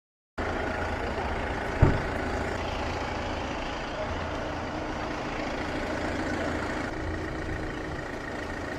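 Diesel vehicle engine running steadily at idle, with a single sharp knock a little under two seconds in.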